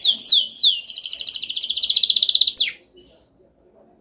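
Domestic canary singing: three falling whistled notes, then a fast, even trill that ends in a downward slur about two and a half seconds in, followed by a pause.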